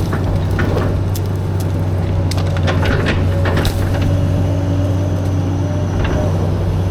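Caterpillar 315B excavator's diesel engine running steadily while brush and branches crack and splinter in many short, sharp snaps as the machine clears trees.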